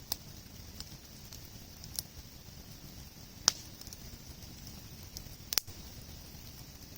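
Wood campfire burning, the logs giving off sharp single pops every second or two, with a close pair of pops about five and a half seconds in, over a steady low hiss.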